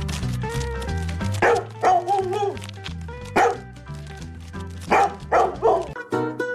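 A dog barking about six times over background music; one call about two seconds in is drawn out and wavering.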